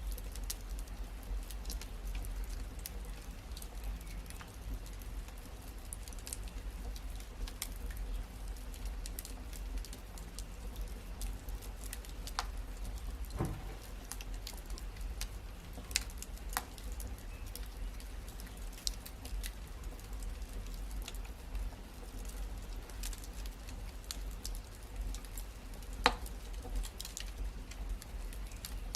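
Wood fire crackling in a fireplace: a steady low rumble with scattered sharp pops and snaps, a few louder pops about halfway through and near the end.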